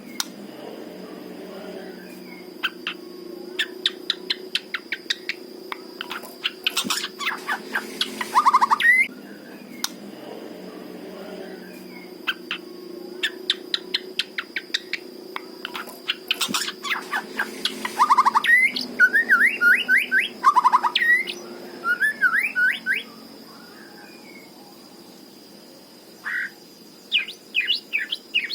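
White-rumped shama singing: phrases of rapid sharp, clipped notes that run into quick sweeping whistles and lower trills, repeated every few seconds. A faint steady high-pitched tone runs underneath.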